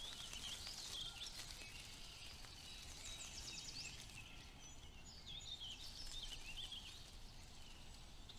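Faint birdsong over quiet outdoor ambience: scattered high chirps, with a quick high trill about three seconds in and more chirps around six seconds.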